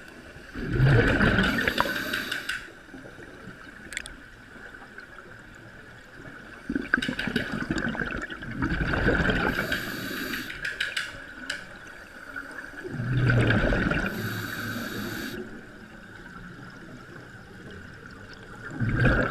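Water splashing and rushing against a boat in surges every few seconds, with a steady faint high hum underneath.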